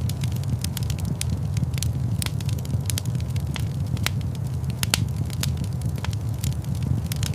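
Wood fire crackling in a fireplace: a steady low rumble of flames under frequent, irregular sharp pops and snaps, with one louder pop about five seconds in.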